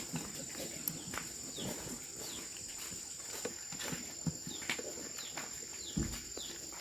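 Outdoor background of repeated short falling bird chirps over a steady high-pitched whine, with scattered light clicks and a dull thud near the end.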